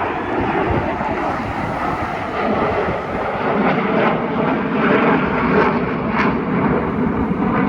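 Jet aircraft flying overhead: a loud, steady rumble of engine noise.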